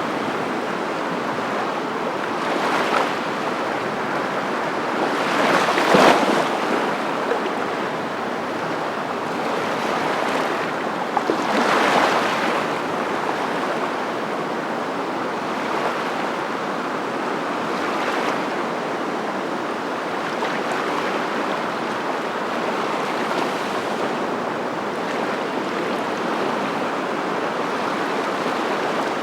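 Steady rushing noise of water or wind, swelling briefly and falling back several times, the strongest swells about six and twelve seconds in.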